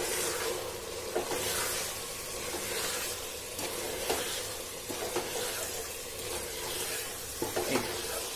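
Mutton mince sizzling in oil in a pressure cooker pan while it is stirred and scraped with a silicone spatula, in repeated irregular strokes over a steady hum. This is the dry spice powders being fried into the mince on low heat after its water has cooked off and the oil has separated.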